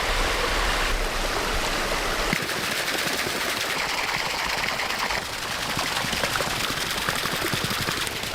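Steady rushing of stream water, with small scattered clicks.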